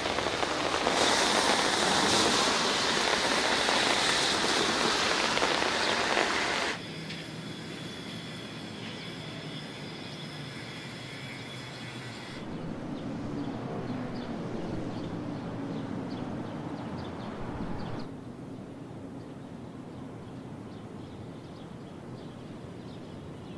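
Heavy rain pouring down on a city street, a loud steady hiss that cuts off abruptly about seven seconds in. After that comes a much quieter outdoor background with faint steady tones, which changes again at later cuts.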